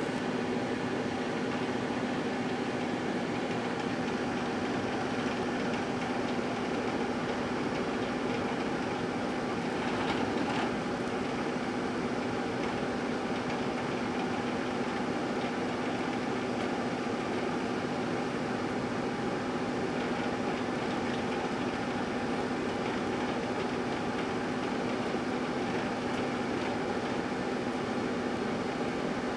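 GE dual-wave microwave oven running, a steady hum of the magnetron and fan with a low drone throughout, slightly louder for a moment about ten seconds in.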